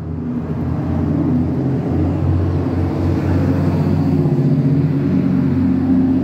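A motor vehicle's engine running steadily nearby, a low hum that grows a little louder in the first couple of seconds and then holds.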